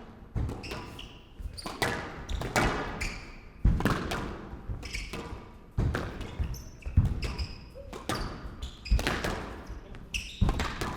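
A squash rally: the ball being struck by rackets and smacking off the court walls, sharp hits coming about once a second, with short high squeaks between them.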